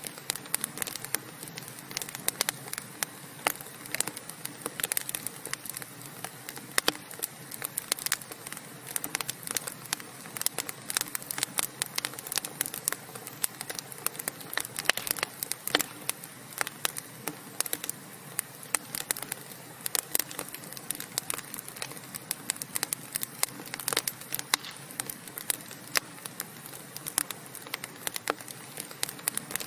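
Wood fire in a fireplace burning and crackling: a dense, irregular stream of sharp pops and snaps over a steady hiss.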